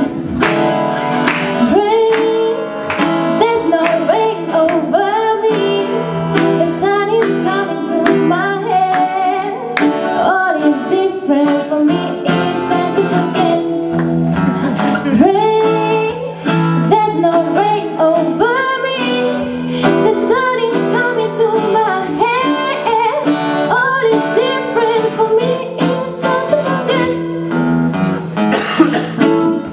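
A song with singing, a woman's voice among the singers, over guitar accompaniment.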